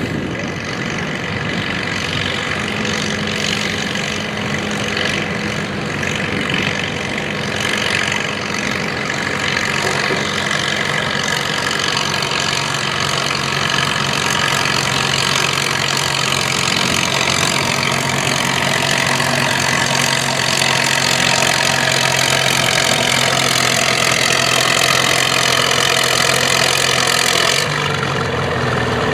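Classic farm tractor engine working hard in a tractor pull, running loud and steady with its pitch slowly climbing. Near the end it drops off abruptly as the throttle comes back.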